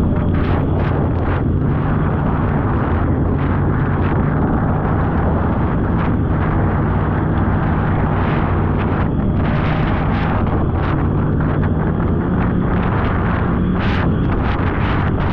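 Polaris snowmobile engine running steadily at cruising speed on a trail, with wind buffeting the microphone and scattered short knocks.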